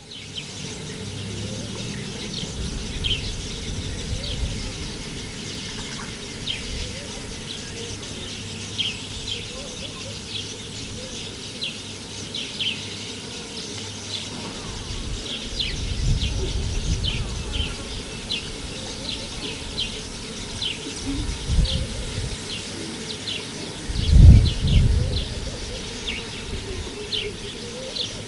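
Small birds chirping: many short, high, falling notes repeating irregularly. A few low rumbles rise under them, the loudest near the end.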